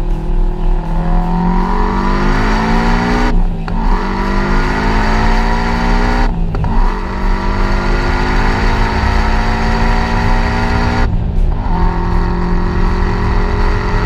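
The 2005 Subaru Impreza WR1's turbocharged flat-four accelerating hard through the gears, revs climbing steadily. Three upshifts, about three and a half, six and a half and eleven seconds in, each a short break before the revs climb again from lower.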